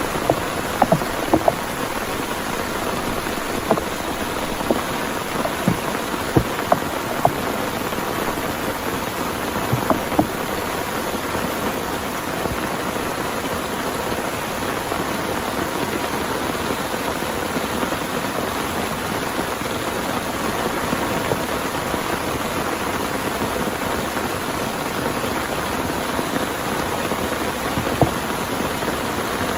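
Heavy rain falling steadily, with scattered louder single drops ticking on a nearby surface, several in the first ten seconds and one near the end.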